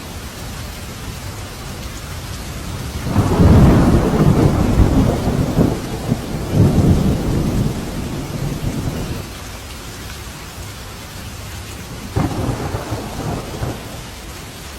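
Thunder rolling over steady rain: a long, deep rumble builds a couple of seconds in and slowly fades away, then a shorter, quieter rumble comes near the end.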